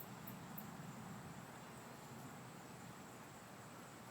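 Faint night insects: a steady high trill, with a few short, high chirps repeating in the first second, over low hiss.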